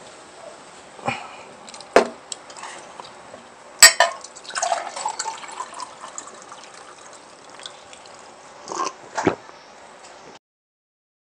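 Close-miked eating sounds: chewing and mouth noises, with about half a dozen sharp clicks of cutlery against a plate. The sound cuts out abruptly near the end.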